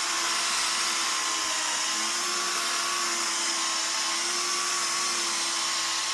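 Milwaukee 3-inch electric buffer running steadily under load, its pad polishing clear coat with compound: an even motor whine with a slight rise in pitch about two seconds in.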